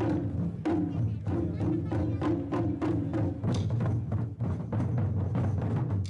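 Japanese taiko drum ensemble playing a fast, steady pattern of strikes, about three to four beats a second, with a brief break at the very end.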